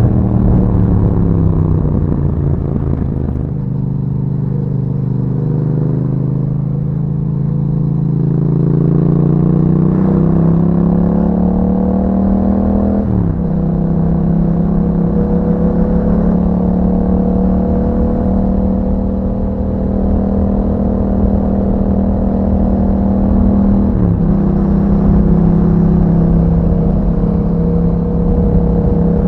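2021 Yamaha MT-07's parallel-twin engine through an Akrapovic exhaust with dB killer, riding on the road. Revs fall over the first few seconds, then climb slowly, drop sharply at an upshift about 13 seconds in, hold steady, and dip briefly again at another gear change near 24 seconds in.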